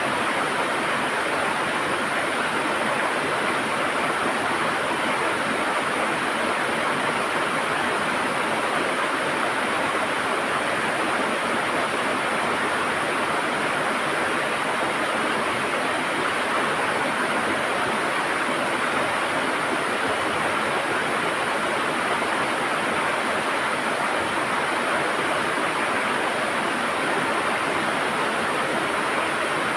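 A river running over rocks, a steady rushing and gurgling of flowing water.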